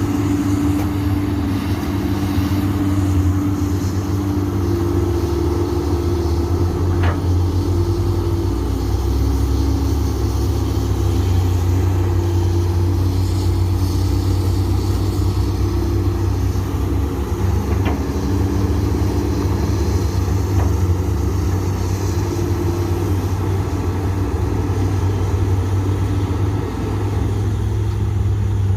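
Komatsu PC200 hydraulic excavator's diesel engine running steadily under working load, its pitch shifting slightly up and down, with a couple of faint knocks.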